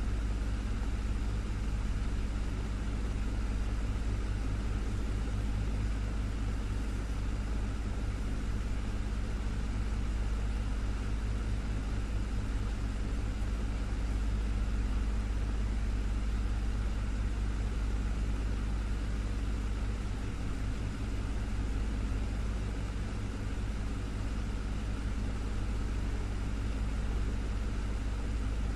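Desktop fan running steadily: a constant airy whoosh over a deep motor hum.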